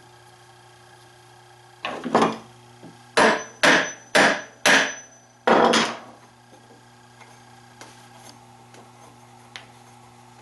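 About eight hammer blows on wood, coming singly and in pairs over about four seconds starting about two seconds in.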